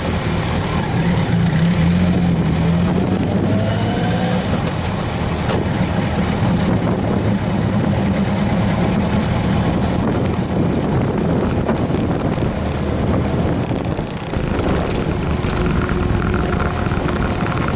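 Vehicle engine running steadily, a continuous low hum with road or machinery noise over it. About fourteen seconds in the sound dips briefly, then a steady higher-pitched tone joins.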